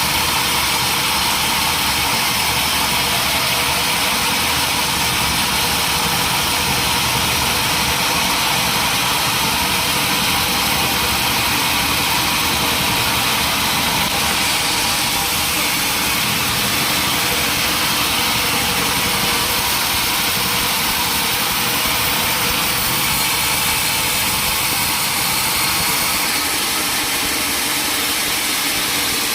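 Sawmill machinery running steadily, a loud continuous mechanical noise with no breaks or strokes.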